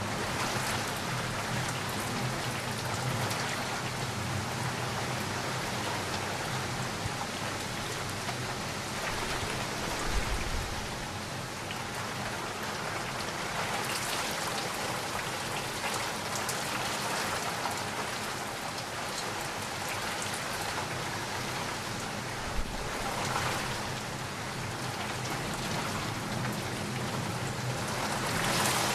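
Steady rain falling and pattering on surfaces, with a couple of brief low thumps, one about ten seconds in and another past the twenty-second mark.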